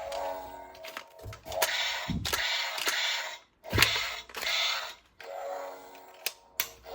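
Sharp mechanical clicks and several short rustling bursts, over faint background music.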